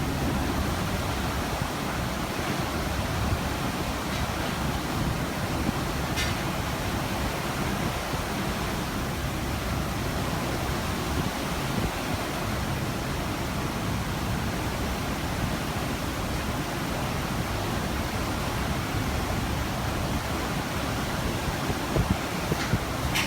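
Steady, even rush of ocean water heard from a cruise ship, a continuous noise with no breaks.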